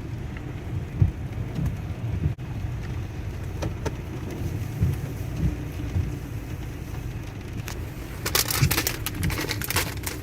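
Steady low rumble inside a car, with scattered light clicks and a burst of crinkling, like plastic packaging being handled, near the end.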